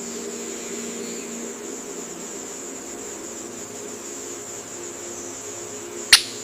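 Steady, high-pitched insect drone, like cicadas or crickets, over a low steady hum. Two sharp clicks come near the end.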